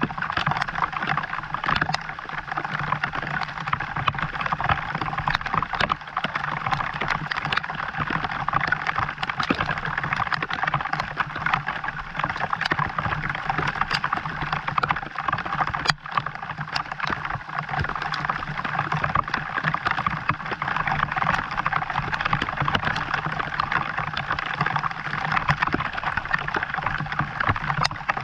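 Steady rain: an even hiss of falling water with scattered drop ticks.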